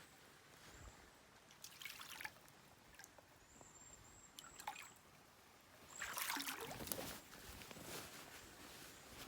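Faint trickling and splashing of shallow creek water. There are a few brief louder splashes about two seconds in and near the middle, and a louder second of splashing around two-thirds of the way through.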